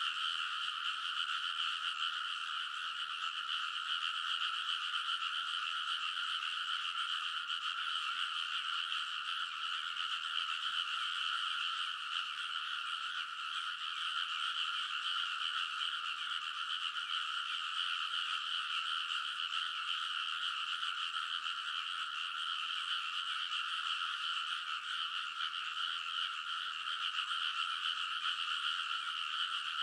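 A dense chorus of many frogs in a rice paddy, calling over one another in a steady, unbroken din.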